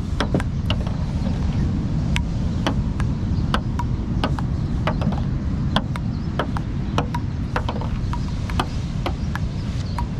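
Strong wind buffeting the microphone with a steady low rumble, broken by sharp irregular clicks several times a second.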